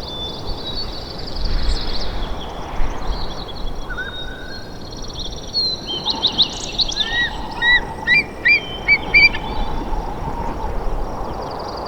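Songbirds singing over a steady outdoor background hiss, with a quick run of repeated chirping notes in the second half.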